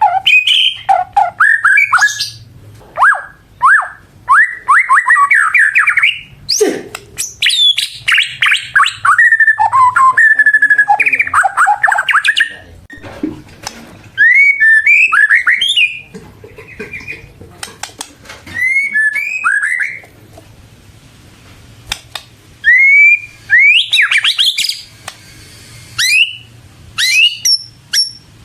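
White-rumped shama (murai batu) in full song: bursts of rapid, varied whistled phrases with rising and falling notes, broken by short pauses.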